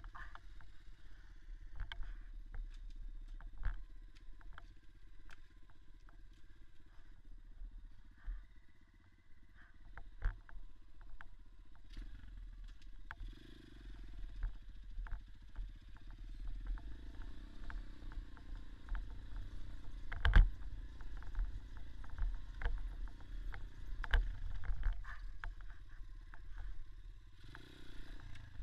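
Small single-cylinder dirt bike running over rough forest ground, the engine note rising and falling with the throttle, amid scattered clacks and knocks from the bike jolting over bumps. One sharp, loud knock comes about two-thirds of the way through.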